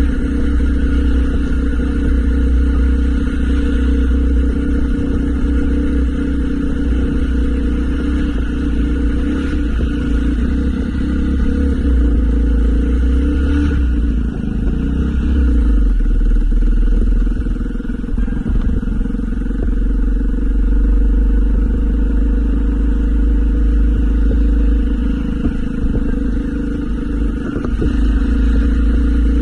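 Motorcycle engine running steadily while riding, with small rises and falls in level.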